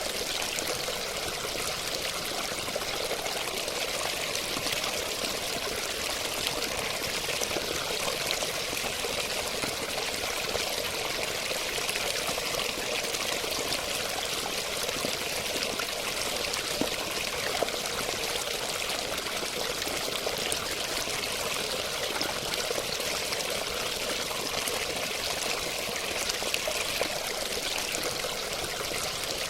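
Running water, an even, unbroken rush of flowing and splashing water.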